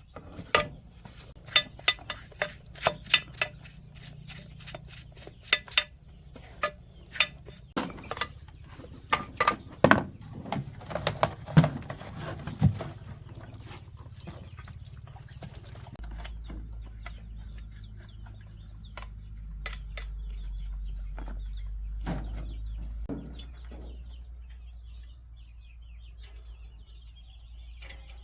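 Steady high-pitched chirring of insects, likely crickets, with irregular sharp clicks and knocks during the first half, then a low steady hum.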